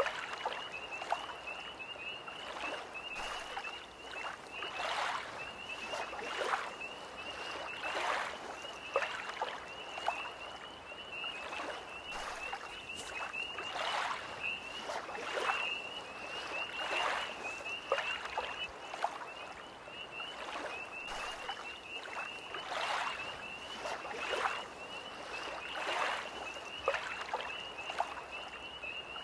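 Small lake waves lapping in short splashes, roughly one every second or so. Under them runs a steady, high, pulsing trill from a tree frog chorus.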